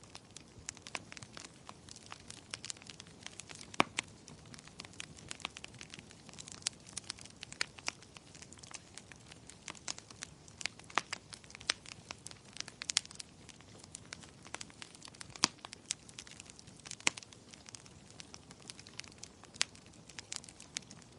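Wood fire crackling and popping, with sharp, irregular pops over a soft, steady hiss.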